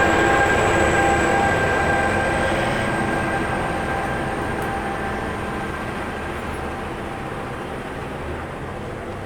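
Train running on the rails and fading steadily as it moves away, with a rumble and steady running tones and a faint high whine that rises slightly in pitch.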